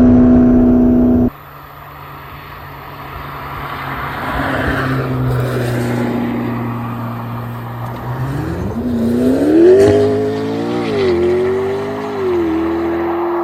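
Audi RS 4 Avant's twin-turbo V6 running hard at high revs, cut off abruptly about a second in. It then runs quieter at low revs, and from about eight seconds in it revs up with a rising pitch, dips briefly and climbs again, then holds steady near the end.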